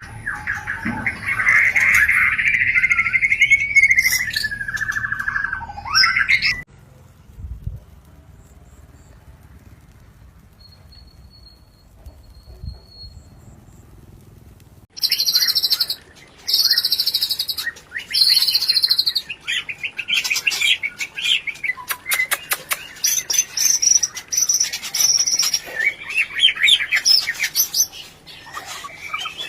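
White-rumped shamas (murai batu) giving excited mating calls: a dense chattering run, then a quiet stretch of about eight seconds with only a few faint high notes. After that come three loud, shrill bursts about a second each and fast rattling call series ('rencetan').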